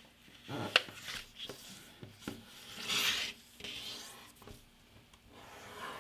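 A sheet of A4 printer paper being folded by hand: rustling with a few sharp taps, and a loud rubbing swipe about three seconds in as the diagonal fold is creased.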